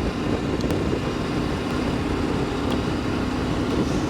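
Triumph Tiger 900 GT Pro's three-cylinder engine running steadily while riding, under a steady rush of wind on the microphone.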